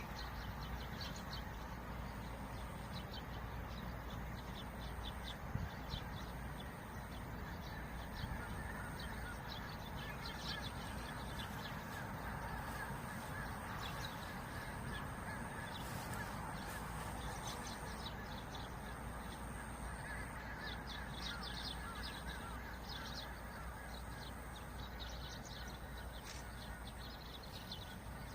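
Birds calling over and over across a steady wind noise with a low rumble.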